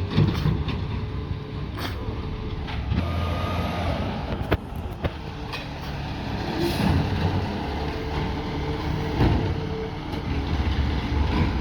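Peterbilt 520 garbage truck with a McNeilus ZR body, its engine running steadily, with a few scattered knocks and a brief hiss about seven seconds in.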